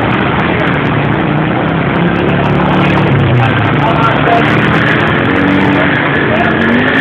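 Vehicle engines running in a dense, steady wash of noise, with faint voices in the background.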